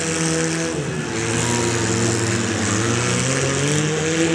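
Demolition-derby mini-car engines running hard, the pitch dipping about a second in and then climbing steadily as a car accelerates.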